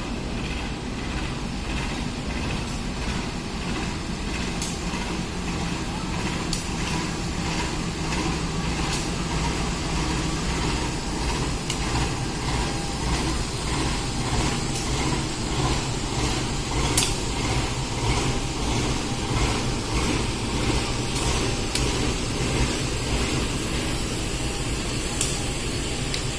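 A diesel-hauled train running through the station: a steady low rumble that grows slightly louder, with sharp clicks now and then.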